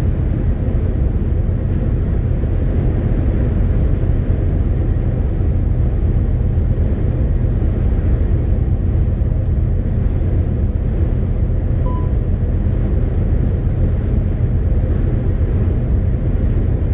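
Steady low drone of a MAN TGX 18.520 truck under way: its straight-six diesel and road noise heard from the cab, even and unchanging, with one brief high beep about twelve seconds in.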